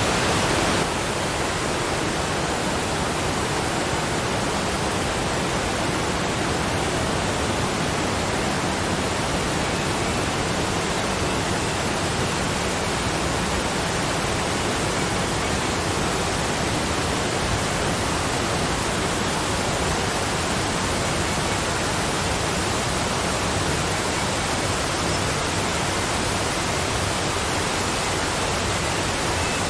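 Waterfall: a steady, even rush of falling water, dropping slightly in level about a second in.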